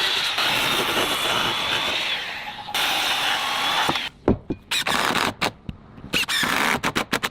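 Construction work on wooden planks: a power tool running steadily for a few seconds, then a series of sharp knocks, several of them in quick succession near the end.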